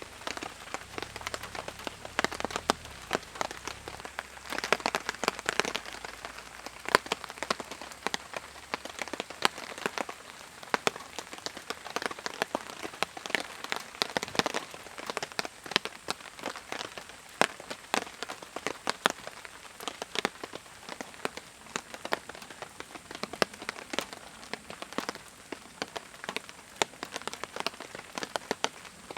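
Steady rain, with many individual drops tapping sharply and irregularly close by.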